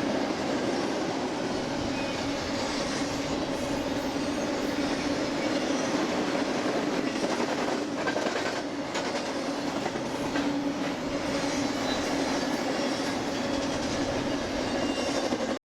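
BNSF intermodal freight train rolling past: steady noise of wheels on rail, with a few sharper clicks about halfway through. The sound cuts off abruptly at the very end.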